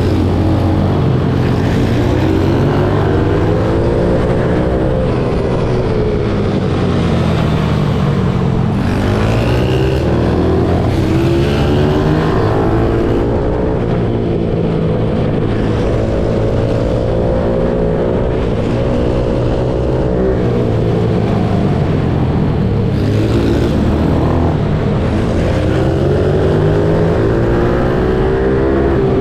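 Pit bike engine revving hard, its pitch climbing as it accelerates and dropping as it comes off the throttle, over and over.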